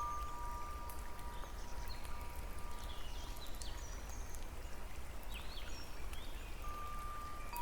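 Nature soundscape: wind chime tones ringing on and fading out about three seconds in, then returning near the end, with scattered short bird chirps over a steady low background rumble.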